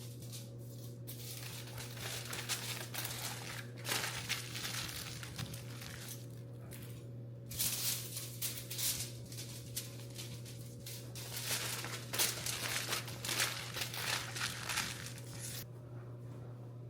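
Crinkling and rustling of paper or plastic being handled, in irregular bursts, over a steady low hum.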